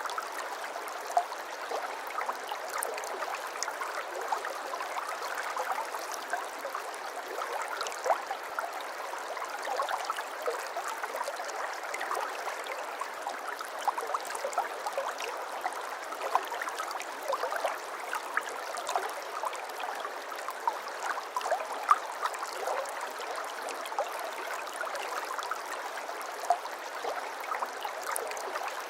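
Flowing water babbling steadily, with many small splashes and drips on top.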